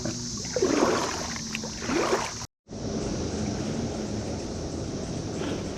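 Steady high-pitched drone of a periodical cicada chorus over water and wind noise around a kayak. It cuts out abruptly for a moment about halfway through, then resumes.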